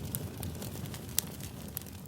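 Wood fire crackling: a low, steady rush of flames with scattered sharp pops, the loudest about a second in.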